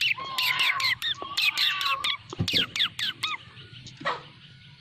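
Birds chirping in quick runs of short, falling notes, which stop about three and a half seconds in; a single longer falling call follows just after four seconds.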